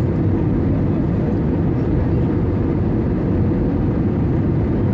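Steady low rumble of an Airbus A320 cabin in flight: engine and airflow noise, even throughout with no change.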